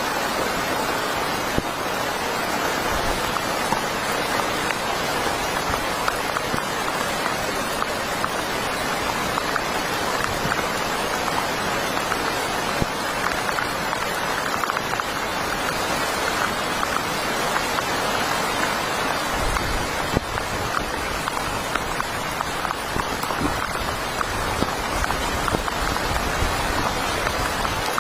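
Heavy rain falling steadily, a dense hiss with many individual drops ticking on a surface. A low rumble joins in about two-thirds of the way through.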